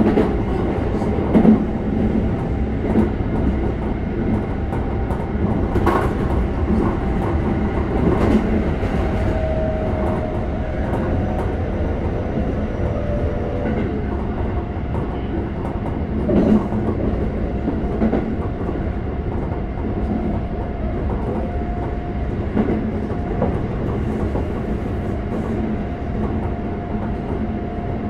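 Keikyu 600 series electric train running at speed, heard from inside the car: a steady rumble of wheels on rail, with now and then a single clack from a rail joint. A faint thin whine rises and fades a few times.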